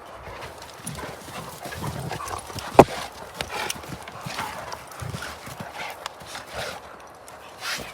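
Dogs wrestling in play: irregular scuffling and short dog noises, with one sharp, loud sound about three seconds in.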